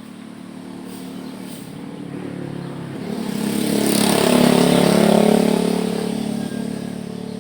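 A motor vehicle driving past: its engine grows louder, is loudest about four to five seconds in, then fades away.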